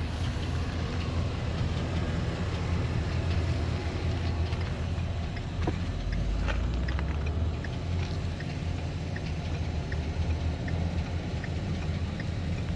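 Ford E350's 5.4-litre V8 engine idling steadily, with faint short ticks over the low hum.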